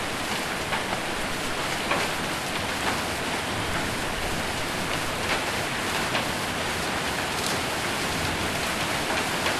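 Hail and heavy rain pelting a roof: a steady dense patter with a few sharper, louder hits scattered through it.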